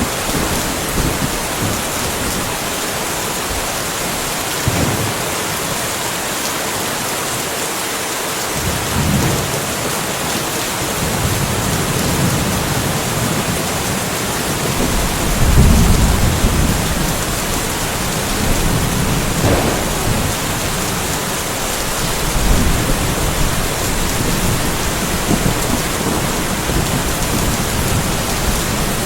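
Steady rain falling, with low rolls of thunder rumbling under it several times, the loudest about halfway through.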